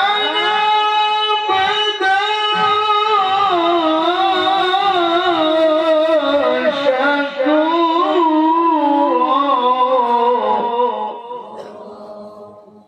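A man's voice chanting the Quran in the melodic tilawah style, one long phrase held and ornamented with wavering melismas, which dies away near the end.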